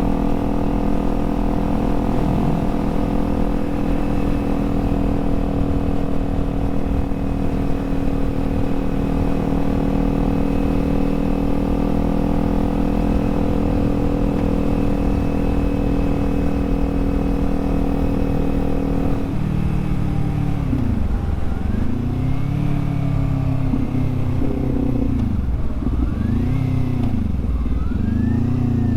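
Kawasaki Z400's parallel-twin engine running at steady revs while the motorcycle cruises. About two-thirds of the way through the note drops, and the revs then fall and climb again several times as the rider slows and accelerates.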